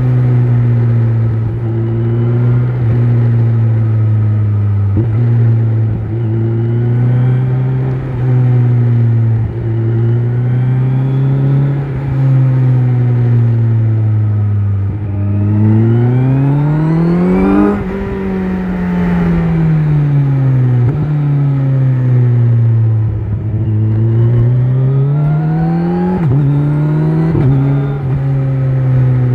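Kawasaki Z900's inline-four running through an Akrapovic exhaust while riding, the engine note rising and falling with the throttle. A little past halfway it makes one long pull, climbing in pitch and then dropping away as the throttle closes, and it rises again near the end.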